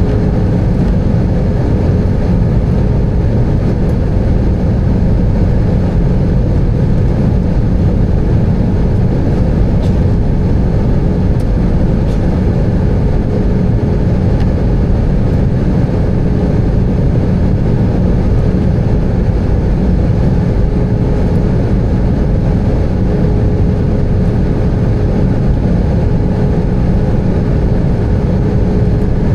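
Airbus A320 cabin noise with the engines running: a loud, steady low rumble carrying one held tone.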